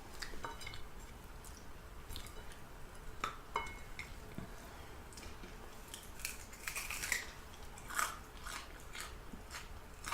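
Close-up chewing and crunching of fried chicken, with irregular sharp crackly bites scattered through, the loudest about three and a half, seven and eight seconds in.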